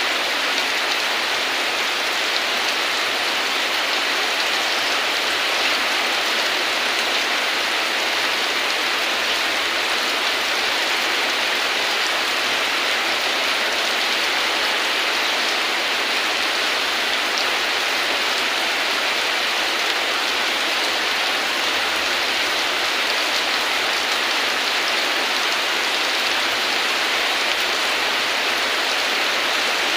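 Steady rain falling, an even hiss of drops without change or thunder.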